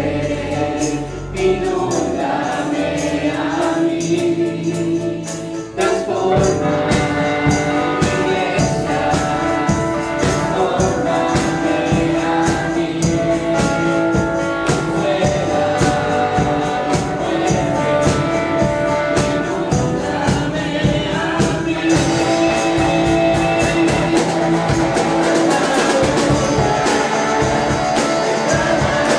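Live gospel worship music: a congregation or choir singing over a church band, with tambourine. About six seconds in, a steady, driving beat of percussion comes in under the held sung notes.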